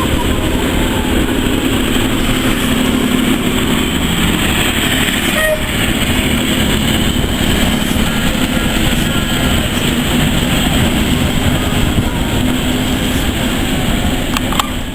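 Train running: a loud, steady rumble with a faint low hum, cutting off suddenly at the end.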